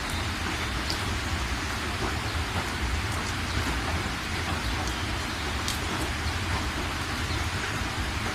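Steady rain falling, an even hiss with occasional faint drop ticks over a constant low rumble.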